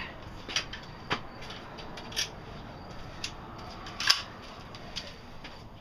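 A series of sharp clicks and taps, about six at irregular intervals, the loudest a little after the middle, over a faint steady background.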